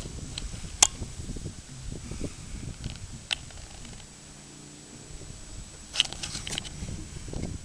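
1998 Dodge Neon's four-cylinder engine idling through a Cherry Bomb Turbo II muffler: a low, uneven exhaust rumble. A few sharp clicks come over it, about once every two to three seconds.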